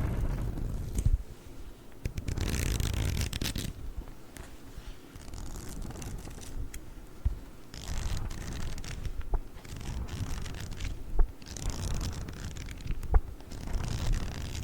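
Close-miked ASMR handling of a 'chocolate book': bursts of scratching and rustling a second or two long, with a few sharp taps.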